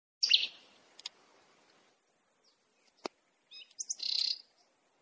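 Birds chirping in short high bursts, one near the start and another about three and a half seconds in, with a sharp click at about three seconds.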